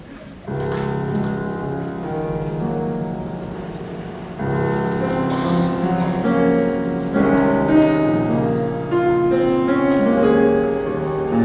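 Piano accompaniment starting about half a second in with sustained chords, growing fuller about four seconds in.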